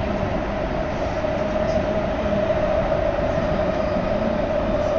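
Steady running noise of a Tsukuba Express train heard from inside the carriage, an even rumble with a constant hum that does not change.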